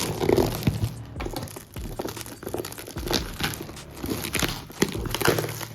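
A parcel's packaging crinkling and tearing as it is opened by hand, in a run of irregular rustles with a few sharper snaps.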